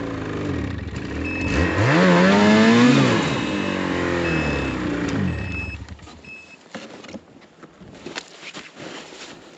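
Snowmobile engine revving up, its pitch climbing to a peak about three seconds in, then easing off and fading away by about six seconds in, with a few short high beeps over it. After that only faint scattered clicks and knocks.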